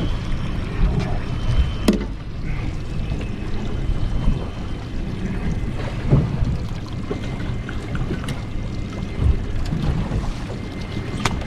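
Wind buffeting the microphone over water sloshing against a boat's hull, a steady low rumble broken by a few sharp knocks.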